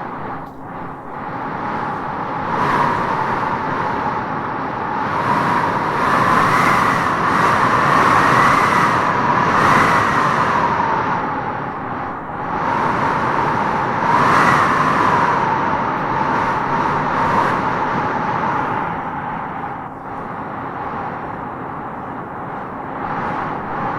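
Howling wind gusting: a steady rush with a whistling howl that rises and falls in pitch, swelling strongest about six to ten seconds in and again around fourteen seconds.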